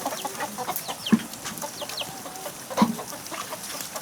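Chickens clucking, with many short high chirping calls throughout and two louder low clucks, one about a second in and another near three seconds.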